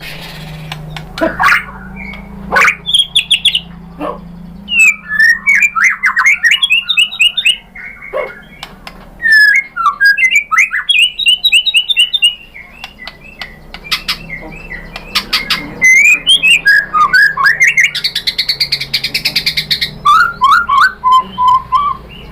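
White-rumped shama (murai batu) singing a long, varied song: whistled rising and falling phrases mixed with rapid clicking rattles, and a harsher buzzy chatter near the end. A steady low hum runs underneath.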